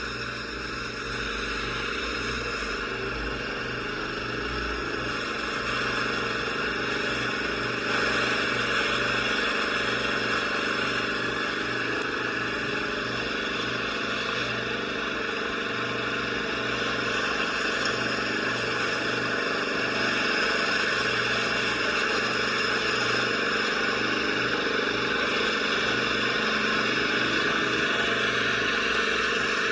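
Engine running steadily with a rattling, grinding noise coming from the muffler.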